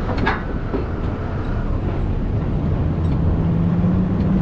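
A large diesel engine running steadily with a low rumble, a steady drone setting in about three seconds in, with a couple of light clicks near the start.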